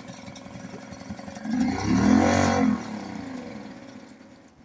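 Boat motor running with the choke off on its first start after a year in storage, revved up once about a second and a half in, its pitch rising and then falling back, before it settles and fades toward the end.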